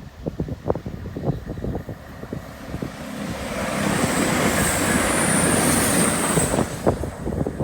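A train passing the level crossing: its rush builds from about three seconds in, holds loud for a few seconds with a thin high whine above it, then eases. Wind buffets the microphone in the first seconds.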